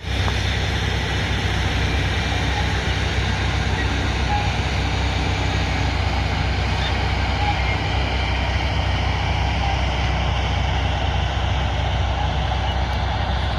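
Diesel engine of a heavy earthmoving machine running steadily under load, a deep even hum with a broad rumble over it.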